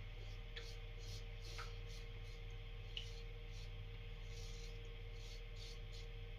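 Faint short scraping strokes of an adjustable safety razor across stubble, roughly one a second, over a steady low hum.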